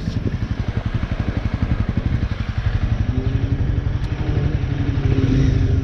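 Motorcycle engine running at low revs with a steady, rapid pulsing beat; about three seconds in, a steady droning tone joins it.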